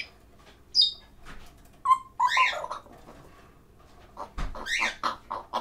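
Pet parrot calls: a short high chirp just under a second in, then a whistle and a louder squawk about two seconds in, and a quick string of clicks and short calls near the end.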